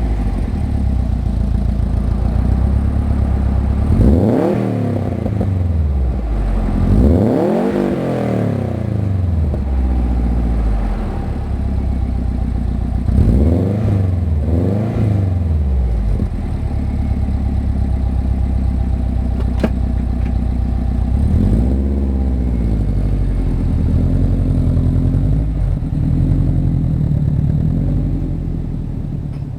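Subaru Legacy's boxer engine heard through a Megan Racing single-tip cat-back exhaust, idling and blipped about six times. Each rev rises and falls back to idle within a second or two; the largest comes about seven seconds in.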